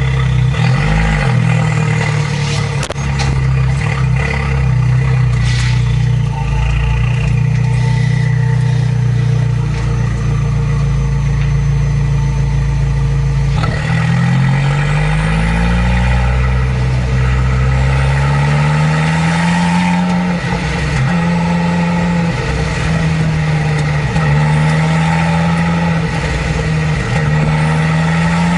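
Abarth 595 Competizione's turbocharged 1.4-litre four-cylinder with a Record Monza exhaust, running steadily at first. From about halfway it pulls in a series of rising revs, each broken by a drop in pitch as it shifts up a gear.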